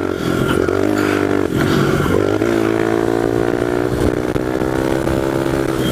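1998 Honda XR100 pit bike's single-cylinder four-stroke engine with an FMF exhaust, pulling under load in fifth gear during an attempted wheelie. Its pitch climbs slowly over the last few seconds as the bike gathers speed.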